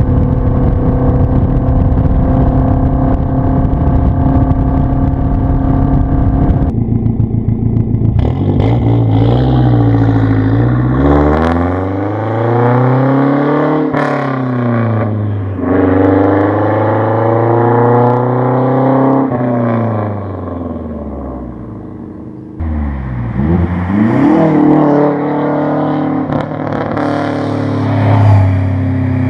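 Straight-piped Mazdaspeed3's turbocharged 2.3-litre four-cylinder with no cats or mufflers, in several spliced clips. It holds a steady drone for the first few seconds, then revs up and down repeatedly, rising and falling in pitch, with another burst of revs near the end.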